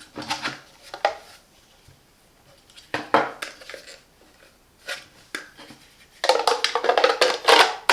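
Hard plastic parts of a cordless vacuum's dust container and filter being handled, knocking and clicking together. A few separate clicks come first, then a burst of rapid clatter near the end.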